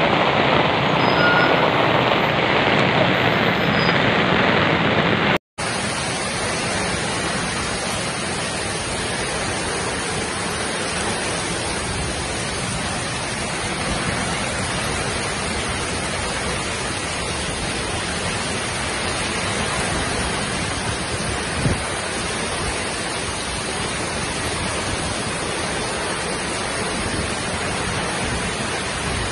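Heavy tropical downpour, a steady hiss of rain, with a tanker truck driving past on the flooded road in the first few seconds. After a brief break about five seconds in, heavy rain pours on through the trees as a steady hiss, with one short knock about two-thirds of the way through.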